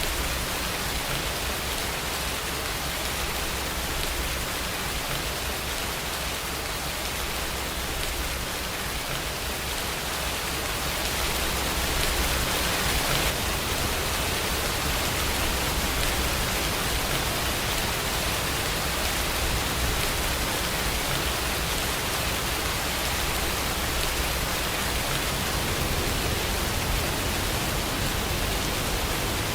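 Steady rain falling, an even hiss of many drops with a low rumble underneath, growing slightly louder about twelve seconds in.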